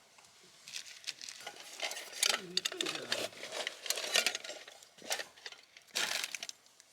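Metal utensils clinking and scraping against cookware in a series of irregular strokes.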